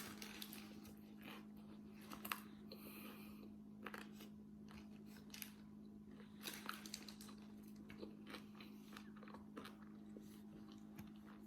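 Faint chewing and wet mouth clicks from someone eating a burger and fries, scattered irregularly, over a steady low hum.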